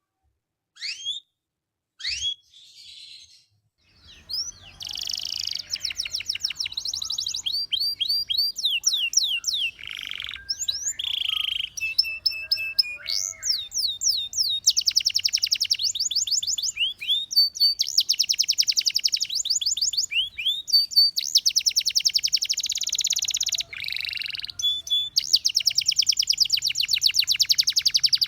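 Domestic canary singing. A few separate rising chirps open it, then from about four seconds in a continuous song of fast trills, rapid repeated notes and rising sweeps.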